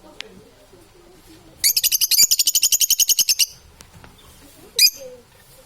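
Parrot calling: a rapid run of high chirps, about ten a second for roughly two seconds, then one short chirp a second or so later.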